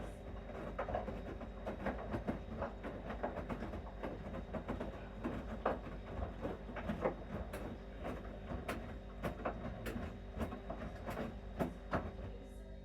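Bosch Series 6 front-loading washing machine in its main wash: the drum turns over the laundry with a steady motor hum and irregular clunks and clicks, which stop just before the end as the drum comes to rest.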